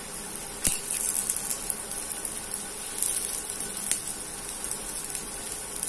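Potato cutlets sizzling steadily in a little oil on a cast-iron tawa, with a few sharp clicks.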